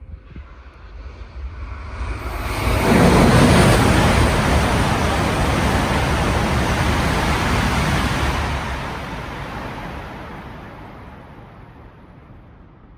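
E5-series Shinkansen coupled with an E6-series set passing through a station at speed without stopping: a rushing of air and wheels that swells over about three seconds, holds loud for about five, then fades away slowly.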